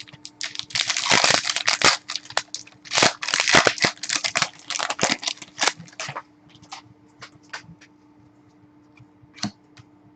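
Crinkling and tearing of trading card packaging, a dense run of crackles lasting about five seconds, then only occasional faint clicks and rustles.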